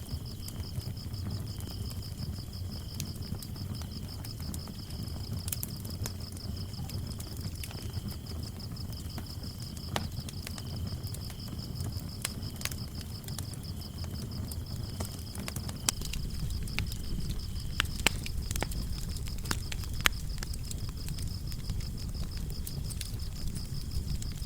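Wood fire burning in a fireplace, a low rumble with scattered crackles and a few sharp pops, under crickets chirping in a steady high trill. A second, lower chirping stops about two-thirds of the way through.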